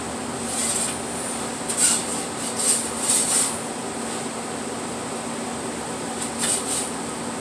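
A handful of short scrapes, about five, over a steady fan hum inside the pizza truck.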